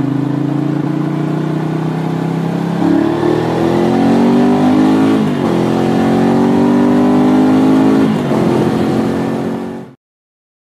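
Ducati 750 Sport's air-cooled L-twin engine pulling through the gears: steady at first, then the pitch climbs, drops at a gear change about five seconds in, climbs again and drops near eight seconds. It cuts off abruptly about ten seconds in.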